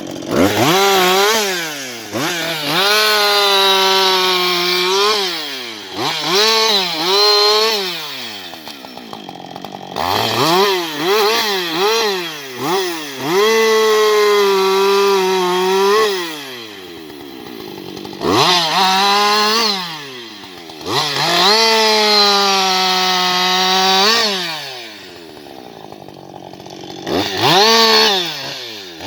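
Husqvarna 560XP two-stroke chainsaw revved hard again and again, held at full throttle for stretches of several seconds and dropping back toward idle between them, with a few quick short blips of the throttle.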